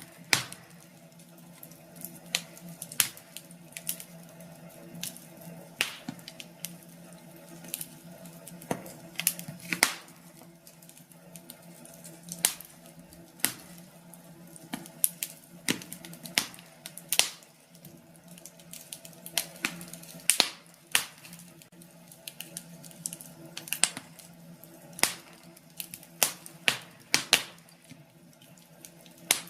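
Wood fire in a fireplace crackling, with sharp pops at irregular intervals, over a faint steady low hum.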